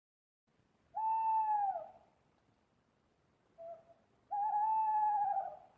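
Owl hooting: two long hoots, each a little under a second and a half, falling slightly in pitch at the end, with a short faint note between them.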